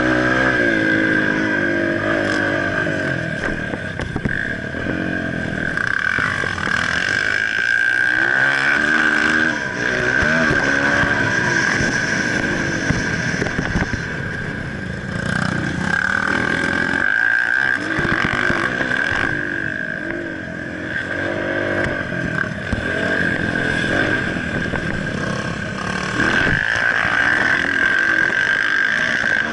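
Motocross bike engine revving up and down as it is ridden round a track, its pitch climbing and dropping again and again, with a steady high whine throughout.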